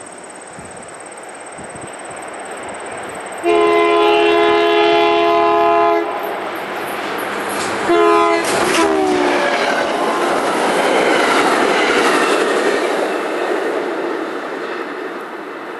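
Diesel commuter train led by an EMD F-unit locomotive sounds a steady multi-note horn for about two and a half seconds, then a short blast that drops in pitch as the locomotive passes close by. The rush and clatter of the locomotive and coaches going by follows, fading as the train moves away.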